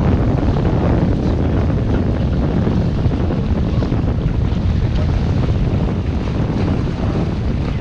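Wind buffeting the microphone aboard a sailboat under way in about 15 knots of breeze: a steady, loud rumbling rush, with water noise along the boat beneath it.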